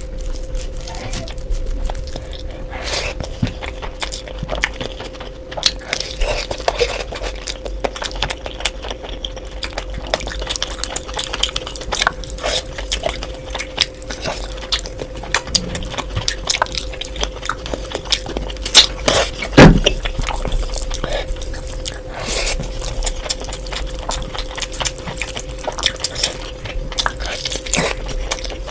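Close-up eating sounds: a person chewing and working through curry, many small clicks and smacks, with a louder knock about two-thirds of the way through. A steady faint hum sits beneath.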